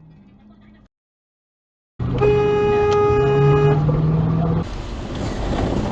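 About two seconds in, a car horn sounds loud and steady for about a second and a half. Vehicle and road noise follow.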